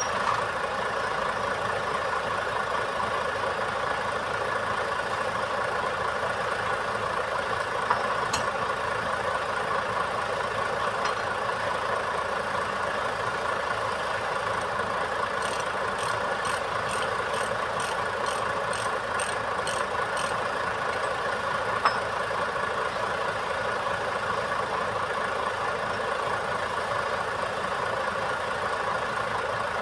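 Heavy truck diesel engine running steadily at idle. Midway there is a run of about a dozen quick, evenly spaced ticks lasting some five seconds, and there are a couple of single sharp clicks.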